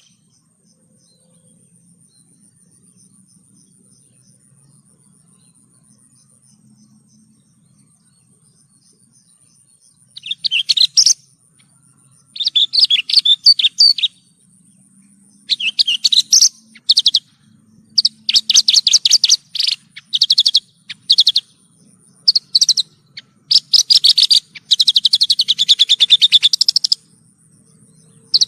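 Javan bush lark (branjangan) singing in bursts of rapid chirped and trilled phrases, each one to three seconds long with short pauses between, after a quiet stretch of about ten seconds with only a faint thin high tone.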